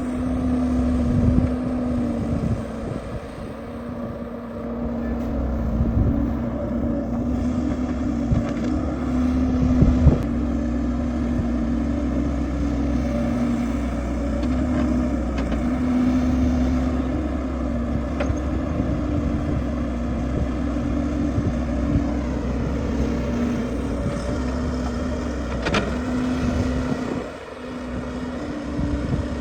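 Excavator's diesel engine running steadily under working load, with a few sharp knocks and a brief drop in level near the end.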